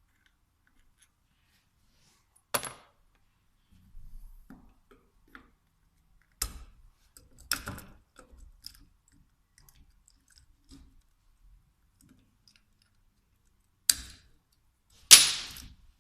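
Metal tools and small parts of a VE diesel injection pump knocking and clinking against each other and the bench during disassembly: about five sharp clinks with soft scraping handling between them, the last and loudest ringing briefly.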